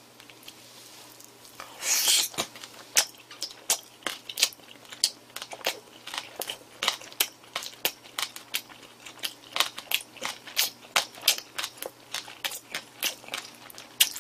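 A person biting into and chewing a mouthful of boiled pork wrapped with spicy raw-fish salad: a loud bite about two seconds in, then steady wet chewing clicks, about three a second.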